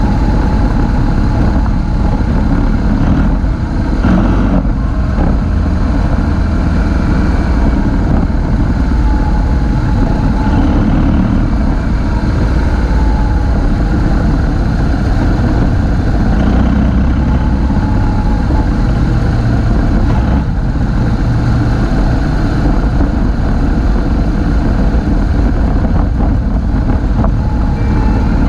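Motorcycle riding along, its engine running under heavy wind rush on the microphone.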